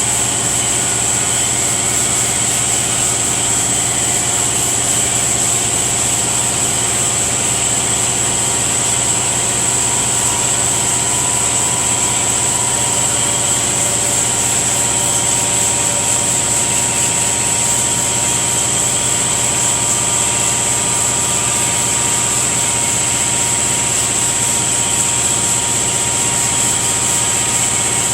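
Shop air compressor running, a steady, unbroken motor drone with a constant high whine over it.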